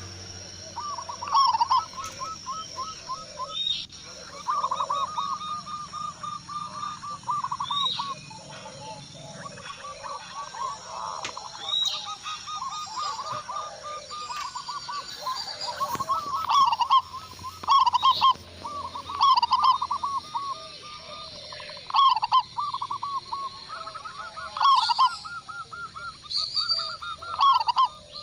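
Zebra doves (perkutut) singing: phrase after phrase of rapid, rolling coos, each run lasting a second or two with short pauses between. Lighter, higher chirps are heard alongside.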